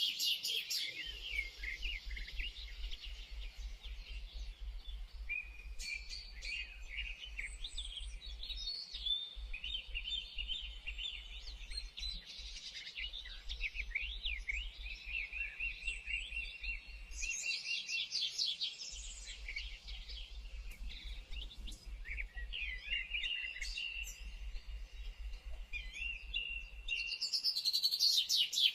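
Several songbirds chirping and calling at once, with short overlapping chirps and quick trills that never let up.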